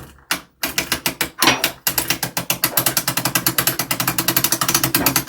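Ratchet of a clock mainspring winder clicking as it is cranked to tighten the strike-side mainspring: a few separate clicks, then from about two seconds in a quick, even run of about ten clicks a second.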